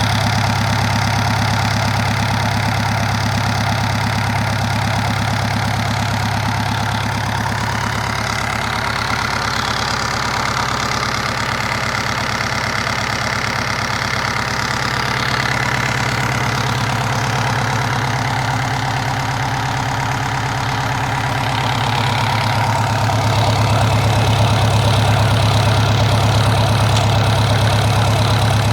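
Perkins 4108 four-cylinder marine diesel engine running steadily at a low speed with an even diesel clatter. It grows somewhat louder about three-quarters of the way through.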